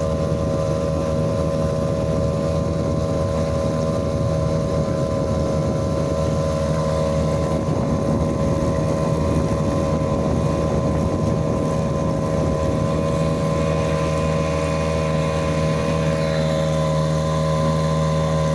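Mercury 2.5 hp outboard motor running at a steady speed, pushing a small boat along, with some wind on the microphone.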